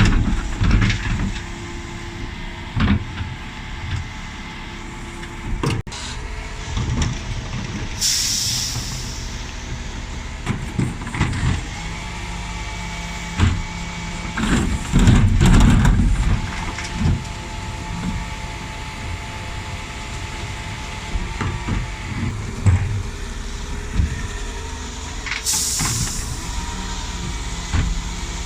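Dennis Elite 6 bin lorry running, with two short air-brake hisses, about eight seconds in and again near the end. Scattered knocks and rattles, with a louder low thumping about fifteen seconds in.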